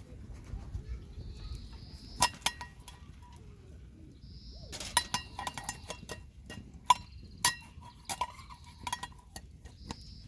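Tableware and utensils clinking during food preparation. There are a few sharp clinks about two seconds in, then a busier run of clinks and taps from about five seconds to nine and a half, some ringing briefly. A faint high call recurs every few seconds.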